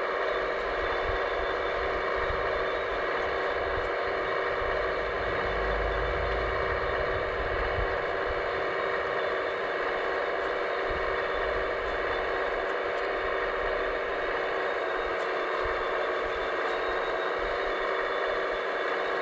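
Radio-controlled scale construction machines running: a steady mechanical hum and whine made of many held tones, with a low rumble that swells and fades.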